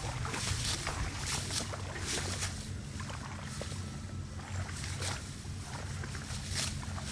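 A small engine running steadily at an even low pitch, with rustling swishes about once a second over it.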